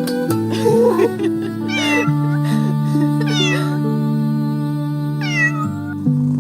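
A kitten meowing three times, short high meows, over soft background music with long held notes.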